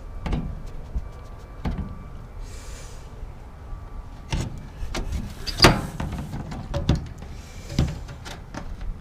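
A series of separate knocks, clatters and rattles, the loudest a little past halfway, with a short hiss about two and a half seconds in.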